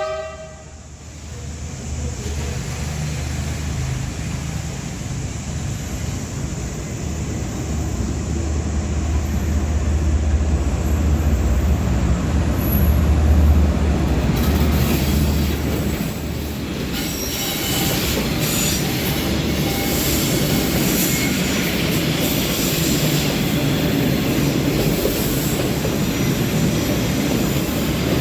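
Diesel train passing close by: the end of a horn blast right at the start, then the locomotive's deep engine rumble building to its loudest about halfway through. The wagons then roll by with a steady rattle and scattered high wheel squeals.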